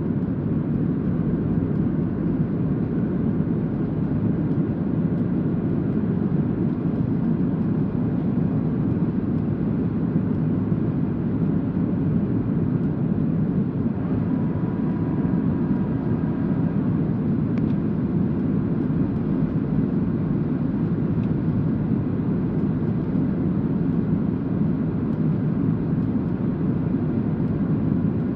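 Boeing 737-800 in flight: a steady, even rumble of its engines and airflow that holds unchanged throughout.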